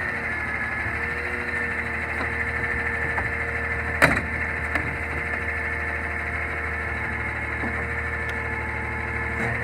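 Garbage truck's natural-gas engine running steadily, with a constant whine over a low hum, and a sharp metallic knock about four seconds in.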